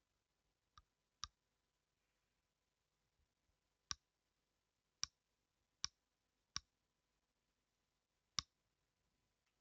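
Single sharp clicks at a computer, about seven of them spaced unevenly over several seconds, as keys or a mouse button are pressed one at a time.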